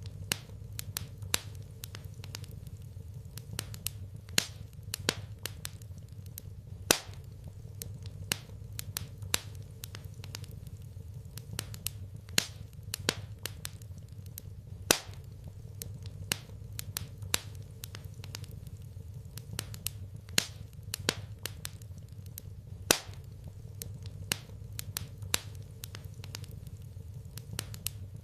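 Wood fire crackling and popping in a fireplace: irregular sharp pops, several a second and some much louder than others, over a low steady rumble.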